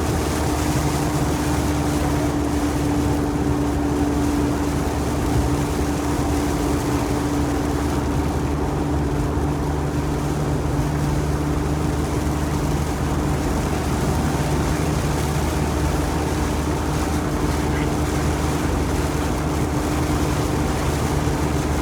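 Chevrolet Corvette C8 Z06's 5.5-litre flat-plane-crank V8 heard from inside the cabin, running at a steady cruise: an even engine drone over constant road noise.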